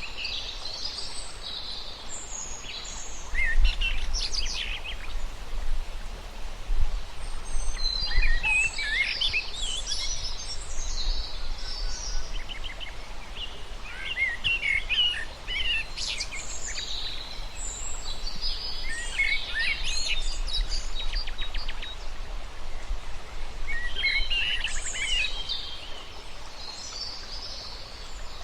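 Birds singing in repeated bursts of quick high chirps and trills, a new phrase every few seconds, over a steady low rumble.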